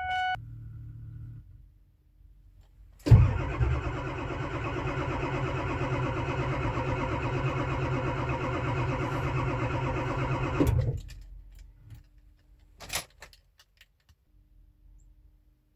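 A 1999 Ford 7.3 L Power Stroke V8 diesel being cranked on the starter for about eight seconds without firing. The cranking starts and stops abruptly; it is a hard cold start at 15°F with the engine's block heater not plugged in overnight. A short chime sounds at the very beginning.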